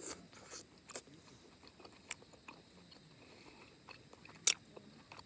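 A person chewing and biting a piece of grilled rib roast steak close to the microphone, with scattered wet mouth clicks and smacks. There is a sharp, loud click about four and a half seconds in.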